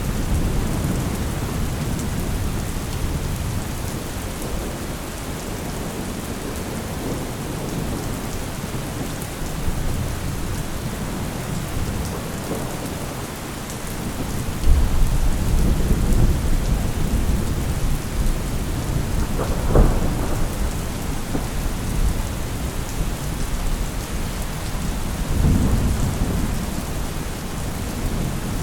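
Thunderstorm: steady rain with rolling thunder. A louder thunder rumble sets in suddenly about halfway through, with a sharper crack a few seconds later and another swell of rumbling near the end.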